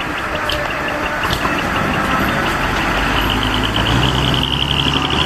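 Large diesel truck engine running close by, its low note growing louder about two seconds in, with a fast, even high-pitched ticking over it near the end.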